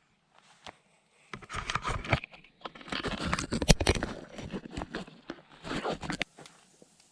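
Close crunching and scraping handling noise, in irregular bursts starting about a second in and lasting about five seconds.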